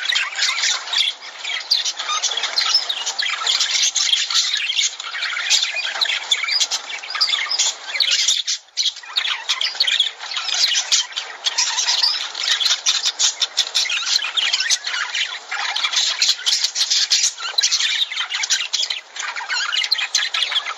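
A flock of lovebirds chattering and squawking nonstop, with many shrill calls overlapping. There is a brief lull about eight seconds in.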